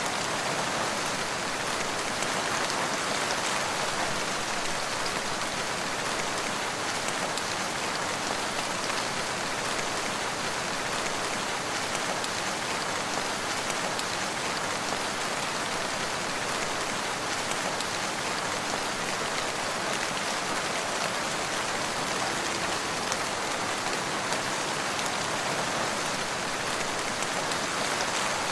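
Steady rain falling, an even hiss of drops without pauses or thunder.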